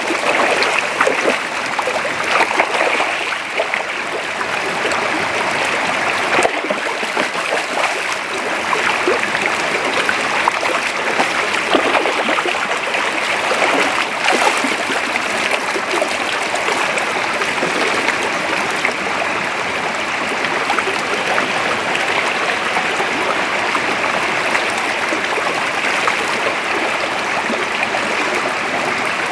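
Creek water running steadily, a constant rushing with many small gurgles and splashes through it.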